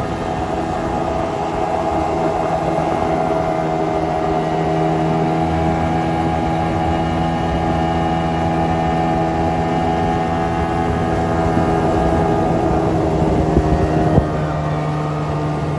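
Boat engine running at a steady speed, an even hum over a wash of noise, with a short knock near the end.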